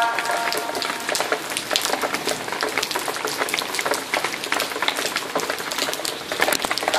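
Rain falling on a wet concrete alley, with many irregular drops hitting and splashing.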